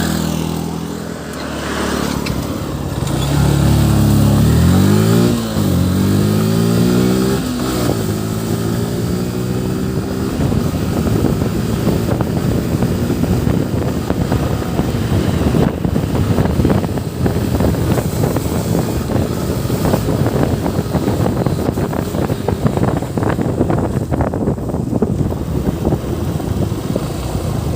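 Yamaha FZ V3's single-cylinder engine accelerating through the gears: its pitch climbs and drops sharply at upshifts about five and eight seconds in. From about ten seconds on, a steady rushing noise of riding at speed, with rapid fluttering, covers the engine.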